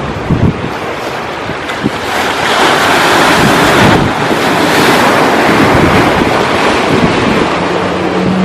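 Sea waves washing in, with wind buffeting the microphone in low thumps; the surf swells to its loudest from about two to five seconds in. A low steady hum joins near the end.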